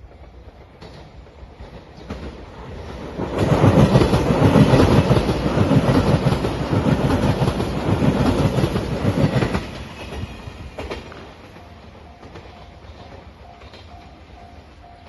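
A five-car JR Shikoku Shiokaze limited express electric train passing a level crossing, its wheels clattering over the rail joints. The sound builds about three seconds in, stays loud for about six seconds and falls away near ten seconds. In the last few seconds a level-crossing bell rings faintly at about two strokes a second.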